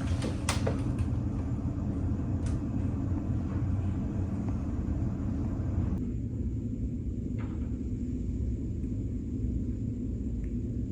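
Ferry's engines and onboard machinery running with a steady low droning rumble, with a few light clicks in the first seconds.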